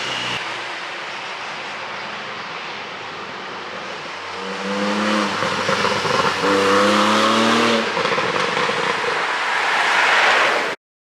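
Porsche 718 GTS 4.0 flat-six engine and exhaust on the move over steady road and tyre noise, with the engine note rising in two pulls about four and six seconds in. The sound cuts off suddenly near the end.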